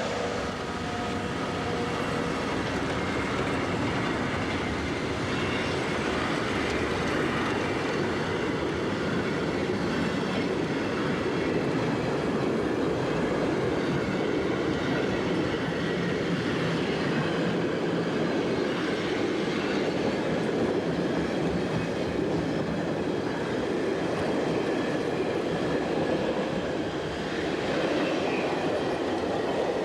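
Train running on rails: a steady rolling rumble and clatter of wheels on track.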